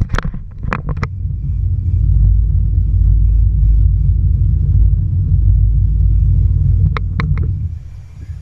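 Jet ski under way, a steady low rumble, with a quick run of sharp knocks in the first second and three more knocks about seven seconds in. The rumble eases off shortly before the end.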